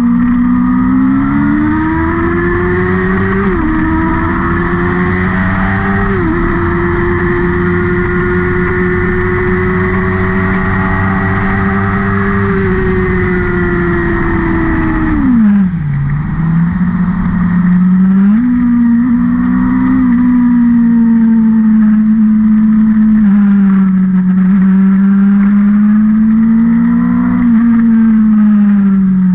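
Engine of a vehicle lapping a race circuit. It revs up through two quick gear changes, holds at high revs for several seconds, then drops sharply as it slows about halfway through. It then rises and falls again through the following corners.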